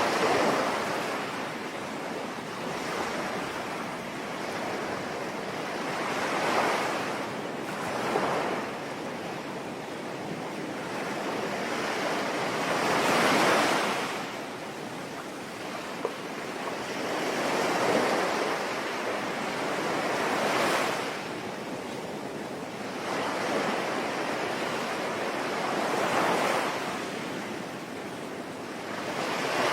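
Sea waves washing in and breaking in slow swells every few seconds over a steady hiss of falling rain.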